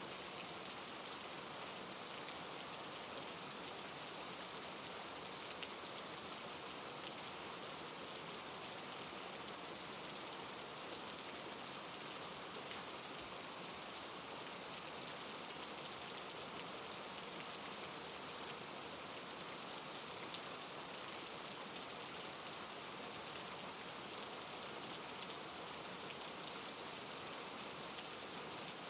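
Steady soft rain, an even hiss of falling drops with faint scattered patters and no change in strength.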